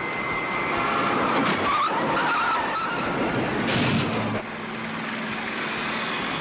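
A car speeding with tyres squealing, then a louder burst of noise about four seconds in.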